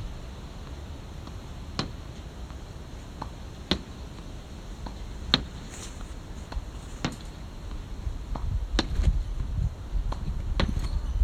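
Sharp single clicks or knocks at irregular intervals, roughly one every second or two, over a steady low rumble that swells in the second half.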